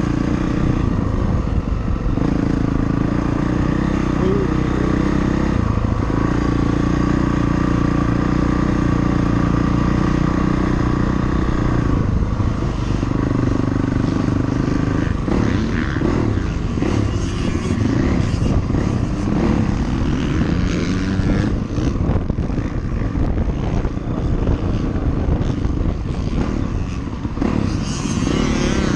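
ATV engine running under riding, steady for the first several seconds, then rising and falling in pitch as the throttle changes, with wind rumbling on the microphone.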